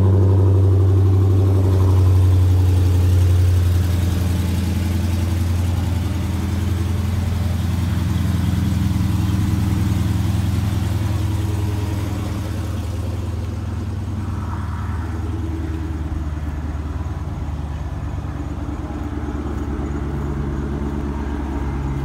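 Stock 2016 Dodge Hellcat's supercharged 6.2-litre Hemi V8 idling with a deep, steady burble, a little louder in the first few seconds and settling lower later on.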